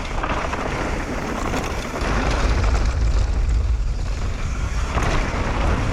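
Wind buffeting the camera's microphone as a mountain bike rides fast down a dirt trail, with tyre and trail rumble underneath. The noise is steady, with a heavy low rumble.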